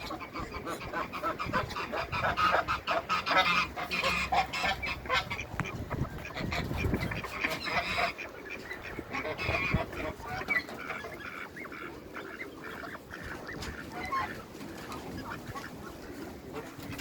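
A flock of domestic ducks and geese calling together: a rapid run of honks and quacks, loudest in the first half, thinning to scattered calls later.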